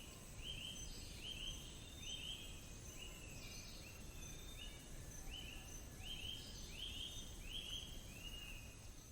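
Faint forest-ambience recording: a short, high call that rises and then holds, repeated about once or twice a second with a brief pause midway, over a steady thin high-pitched tone.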